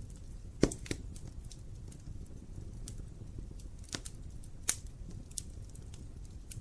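Wood fire burning in a fireplace: a low steady rumble of the flames with irregular sharp crackles and pops from the burning logs, the loudest pop a little over half a second in.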